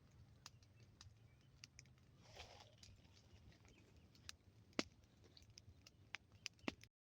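Faint crackling of a wood campfire: sharp pops and snaps at irregular intervals, a few louder ones in the second half.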